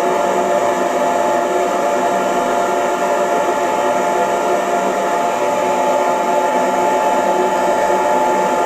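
Hair dryer running steadily on one setting: an even rushing of air with a steady motor whine.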